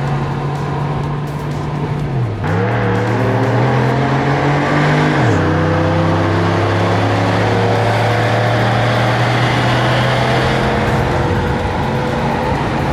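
Car engine under hard acceleration. Its pitch drops sharply about two and a half seconds in, climbs again, then drops again about five seconds in, like gear changes.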